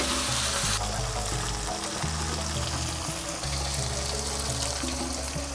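Chilies, green tomatoes and seasonings sizzling steadily as they are sautéed in oil for a sambal, with background music carrying low bass notes.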